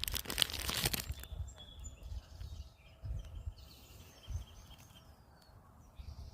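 Wrapper crinkling and crackling for about the first second, then faint, brief bird chirps and a short falling whistle over low, intermittent rumbles.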